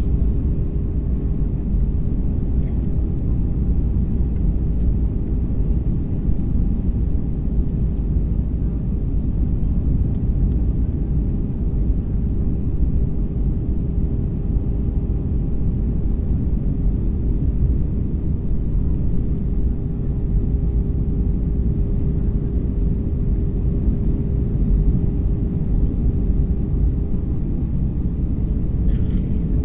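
Airliner cabin noise in flight: a steady, even low rumble of engines and rushing air, with a faint constant hum above it.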